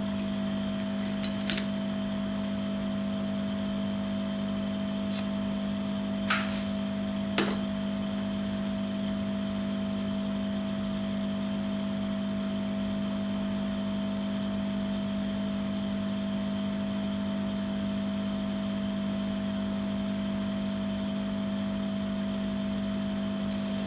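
Steady electrical hum from workbench equipment, with a few small clicks and taps from handling the smartphone as its back cover is closed: one about one and a half seconds in and two close together around six to seven and a half seconds.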